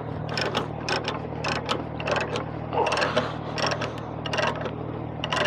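Ratchet chain load binder ("boomer") being cranked on a tie-down chain: a string of irregular metallic clicks. The binders are dry and stiff to work.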